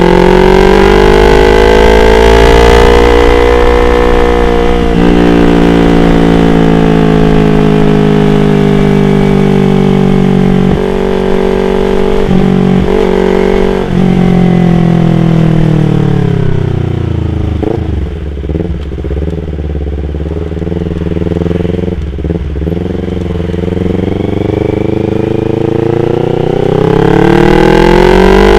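Yamaha R25 parallel-twin engine running under way. It pulls up through the revs with several breaks in pitch like gear changes, then eases off in the middle with the note falling and a few short blips, and climbs again near the end.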